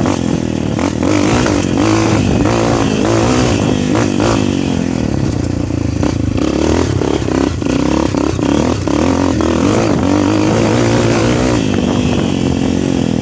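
Motocross bike's engine running as it is ridden, revving up and down, with occasional knocks and clatter.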